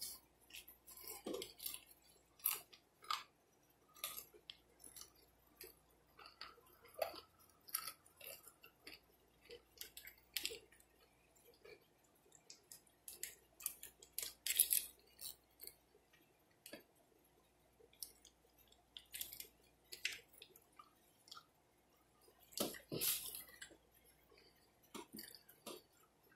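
Close-miked chewing and lip smacking while eating fried chicken wings: irregular wet mouth clicks and smacks, with a few louder clusters.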